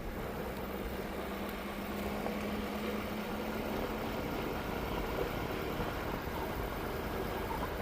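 Ford Super Duty pickup truck driving, a steady run of engine and road noise, with a faint steady hum over the first three or four seconds.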